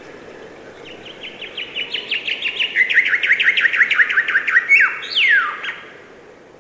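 A songbird singing one song phrase: a rapid series of short high down-slurred notes starting about a second in, growing louder and quickening, then ending in a falling flourish, over a steady background hiss.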